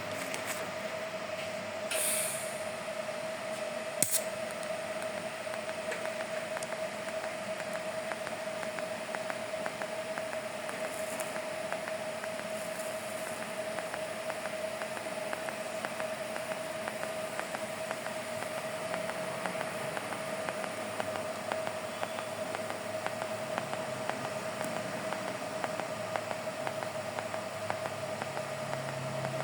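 High-speed rotary grinding tool running steadily with a constant high whine, with scratchy contact noise as it smooths the weld beads on a steel BMX frame. There is a brief hiss about two seconds in and a sharp click about four seconds in.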